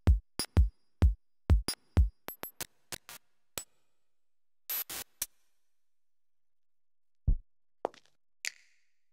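Roland SPD-SX Pro sampling pad playing electronic drum samples hit by hit: deep kick drums about every half second with short clicky hits between them, a few noisy hits near five seconds, then after a pause a single kick and two sharp high hits near the end.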